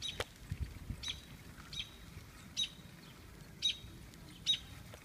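A bird chirping repeatedly: a short, high chirp that drops in pitch, about once a second. There is a faint click just after the start.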